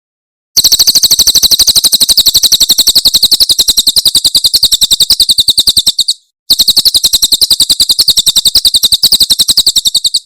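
Cililin songbird giving its 'tembakan' song: a fast, even rattle of high, sharp notes, about a dozen a second, in two long runs with a brief break a little past halfway.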